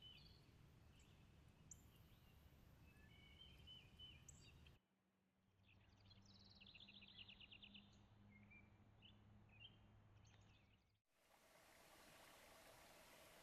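Faint songbird chirps and short calls over a low hum, with a quick trill of rapid repeated notes about six to seven seconds in. The sound changes abruptly twice, and in the last couple of seconds the birds give way to a steady hiss.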